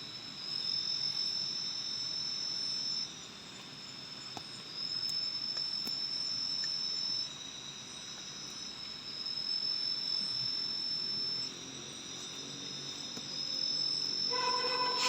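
Crickets and other night insects trilling in tropical forest: a steady high drone, with a louder, higher trill rising in for two to three seconds about every four seconds. A lower buzzing call joins in near the end.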